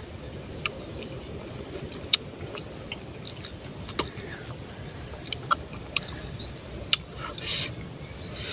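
A person chewing soft fried banana, with scattered sharp mouth clicks and smacks and a short breath near the end, over a steady high drone of insects.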